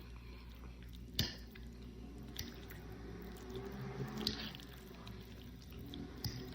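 Close-miked wet chewing of a mouthful of pasta, with sharp mouth-smack clicks about a second in, twice more in the middle and once near the end.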